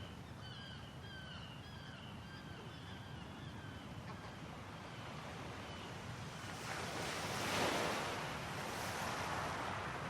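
Sea waves washing ashore, one surge swelling to a peak about three-quarters of the way through and a smaller one following. Birds chirp in short repeated calls during the first half.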